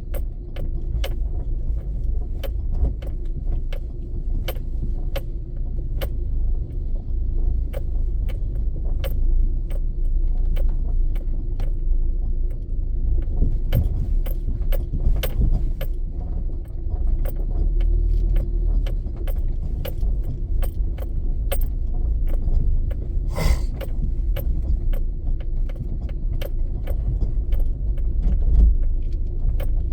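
A car driving in the rain: a steady low rumble of road and engine, with frequent irregular sharp ticks and one longer noisy burst about 23 seconds in.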